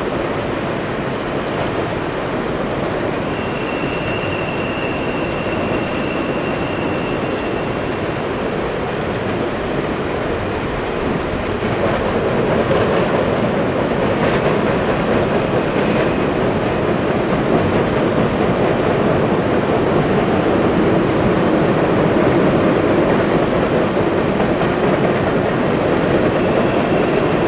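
Cars of a long Canadian Pacific coal train rolling past on steel rails: a steady rumble and clatter of wheels and couplers, growing louder about twelve seconds in. A thin high wheel squeal rises over it for a few seconds near the start.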